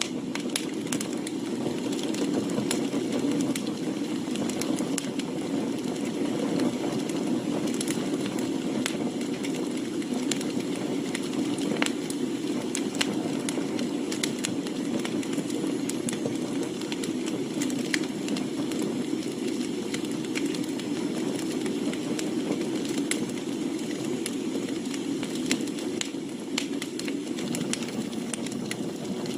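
Wood campfire burning, with frequent sharp crackles and pops over a steady low rush.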